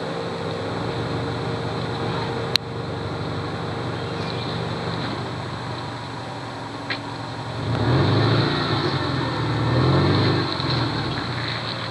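First-generation Subaru Forester's flat-four engine running steadily while crawling over rocks, then revving harder for about three seconds near the end. A sharp click comes about a quarter of the way in.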